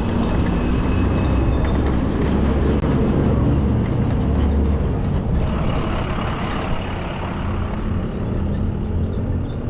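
Wind buffeting the microphone and city traffic noise while riding an electric bicycle at speed, with trucks or buses close by. A thin high squeal sounds about five seconds in and lasts a couple of seconds.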